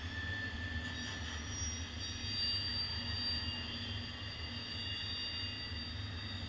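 Slow freight train of autorack cars rolling past: a steady low rumble with several high, drawn-out wheel-squeal tones that overlap and shift in pitch as cars go by.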